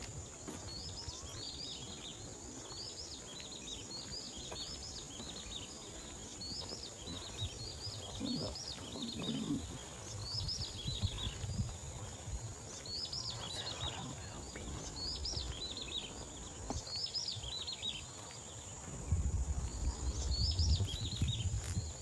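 Small birds chirping: short, high, falling calls repeated about once a second, over a steady high-pitched drone. A low rumble grows louder near the end.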